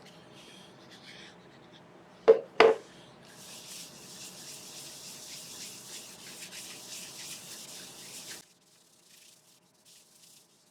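Two sharp knocks, then a steady hissing rub as an abrasive finish is held against the damson bowl spinning on the lathe, stopping abruptly a little over eight seconds in.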